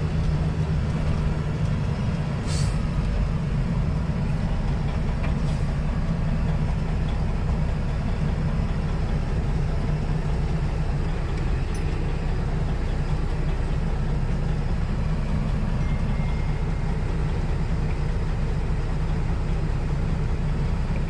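Semi truck's diesel engine running steadily with a low, even drone.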